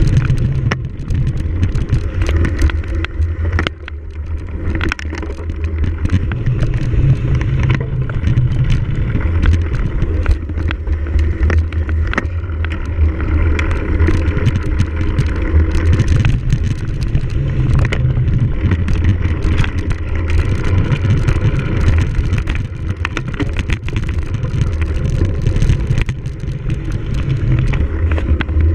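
Wind rumbling on the microphone of a camera on a cyclocross bike during a race, with many short rattles and clicks from the bike jolting over rough ground.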